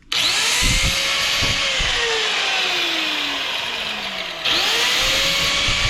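Handheld electric power tool worked into a metal part of a scrapped ice maker, run in two bursts. Each time the motor comes up to speed its pitch climbs, then sags slowly as it bites. The second burst starts about four and a half seconds in.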